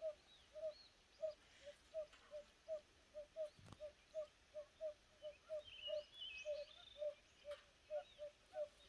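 Faint outdoor pond-side ambience: an animal repeats short, low call notes evenly, about two or three a second, with a few high bird chirps about six seconds in.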